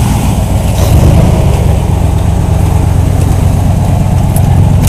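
1983 Ford Bronco's 400 cubic-inch V8 running steadily and loud, a deep rumble with a slight swell about a second in.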